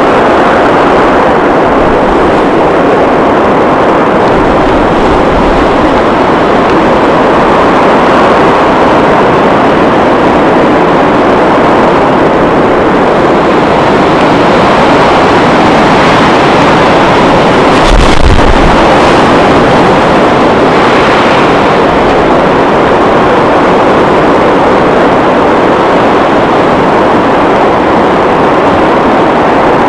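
Strong blizzard wind blowing steadily, with wind hitting the microphone. A harder gust buffets the microphone about 18 seconds in.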